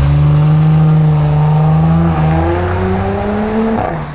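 Audi S5 Sportback's V6 with an aftermarket downpipe and RS exhaust pulling under acceleration, the exhaust note climbing steadily in pitch with a short break about two seconds in. It fades away near the end.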